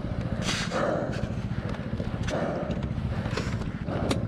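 BMW R1200GS flat-twin engine idling with a steady low pulse while the bike is heaved about in deep mud, with heavy breaths of effort over it and a sharp knock near the end.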